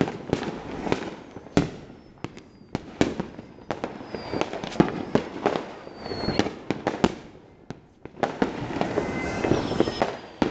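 Many firecrackers and fireworks going off across the neighbourhood at once: irregular sharp bangs and pops, with several high whistles falling in pitch. A dense spell of crackling comes near the end.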